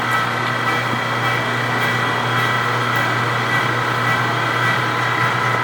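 Precision Matthews 1640 metal lathe running in low range at about 105 rpm while taking a roughing cut along the outside diameter of a cold rolled steel blank. It makes a steady hum with a whine of several held tones from the drive and gearbox.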